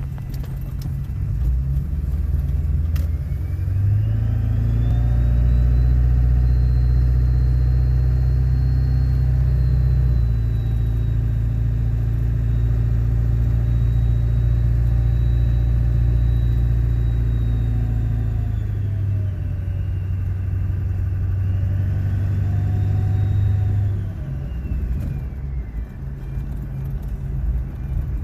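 Ford Power Stroke diesel engine revved twice, a long hold and then a short one. A high-pitched whine rises and falls with engine speed; this whine is the noise the owner is complaining about.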